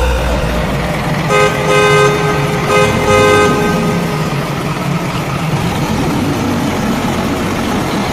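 A truck horn honks twice, each honk held about a second, over a steadily running vehicle engine.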